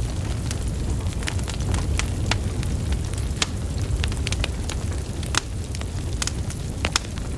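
Wood fire burning, with a steady low rumble of flames and frequent sharp, irregular crackles and pops from the logs.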